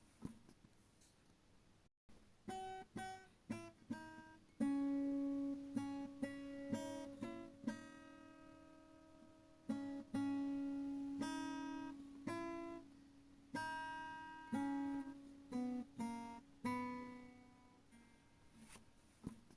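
Background music on acoustic guitar: single plucked notes that ring and fade, sparse at first and busier in the middle.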